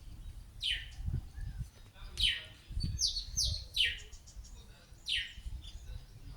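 A small bird calling with repeated falling 'tirit' notes, about one every second or so, with a few short higher notes between them, over a low rumble.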